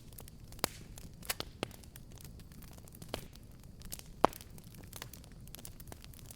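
Fireplace fire crackling: irregular sharp pops and snaps over a soft, steady hiss, with one louder pop about four seconds in.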